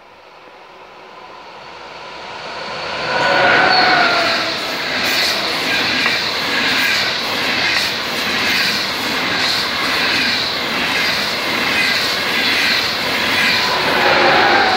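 ICE high-speed train approaching and passing at speed: the rush of wheels on rail grows over about three seconds, then holds loud with a regular swell about once a second as the coaches run by.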